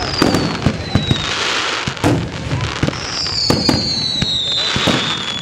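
Fireworks going off: a rapid string of bangs and crackles, with two high whistles falling in pitch, a short one at the start and a longer one from about three seconds in.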